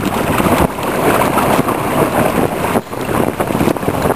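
Wind buffeting the microphone, with water sounds from a small sailing dinghy under way; the noise dips briefly near the three-second mark.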